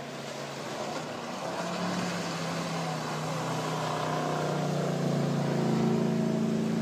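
Motorboat engine running and growing steadily louder, its pitch rising slightly as it comes closer or speeds up, over wind and water noise.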